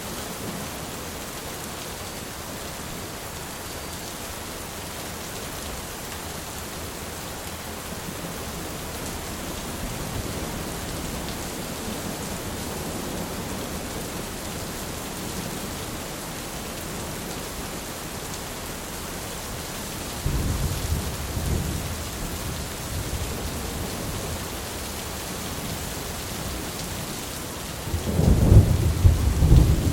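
Steady rain falling through a thunderstorm. Thunder rumbles low about two-thirds of the way in, and a louder roll comes near the end.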